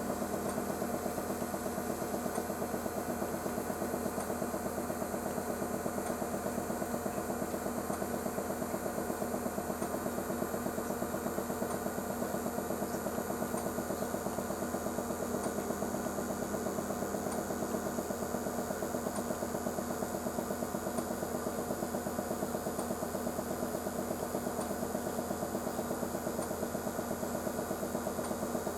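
A steady machine hum with a fast, even flutter and a few constant tones, unchanging throughout, with faint regular ticks.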